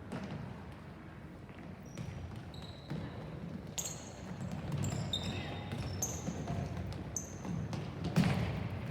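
Indoor game sounds: a ball bouncing and short high shoe squeaks on a court floor over a low murmur of players and spectators, with a louder thud near the end.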